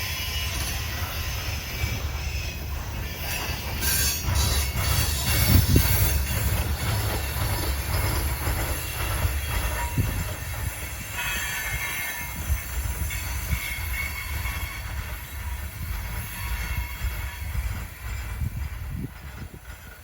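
Freight train rolling past on its way into a rail yard: a steady low rumble of the cars, with steel wheels squealing at times and a few sharp clanks. It is loudest about six seconds in and dies down near the end.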